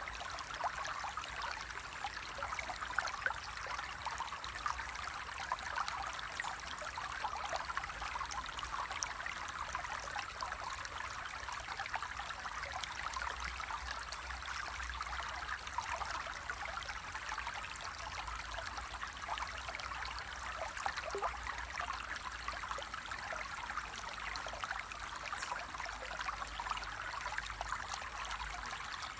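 Flowing water, a stream running and splashing steadily.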